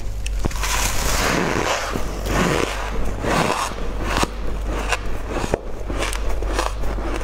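Close-miked crunching, crackling and rustling as a fluffy white food is bitten and chewed, with sharp clicks throughout. A steady low hum runs underneath.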